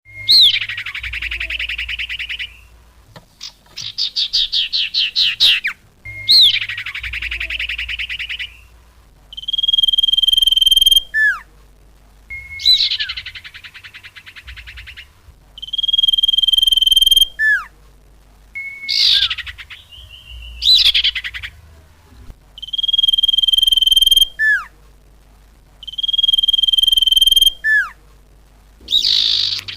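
Played-back bird-lure calls for small birds known locally as sirtu, cupon and diku. Long steady whistled notes alternate with fast trills and short downward-sliding notes, repeating over and over.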